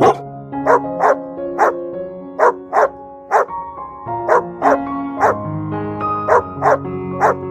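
A dog barking over background music: about fifteen short, sharp barks in quick runs of two to four.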